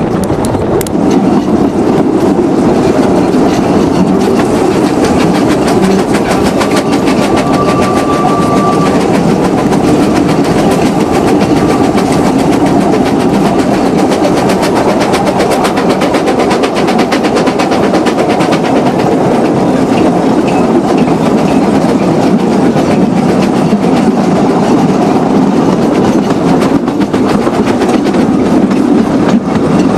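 Narrow-gauge train running on its rails, with a steady, loud clatter of wheels over the track. A short, steady high note sounds briefly about eight seconds in.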